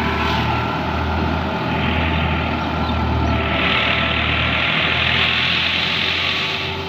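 Heavy farm-machine diesel engine running steadily, with a broad rushing hiss coming in about halfway through.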